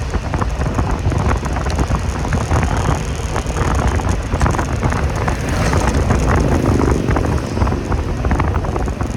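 Motorcycle riding along, its engine running under a low rumble of wind buffeting the microphone.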